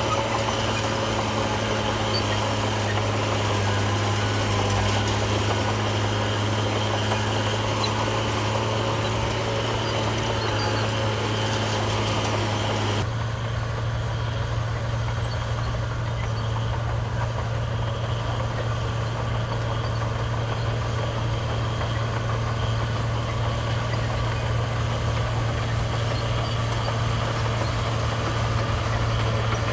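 Heavy diesel engine of earthmoving equipment running steadily with a low, even hum. A little before halfway through, it switches abruptly to a slightly different, duller engine tone.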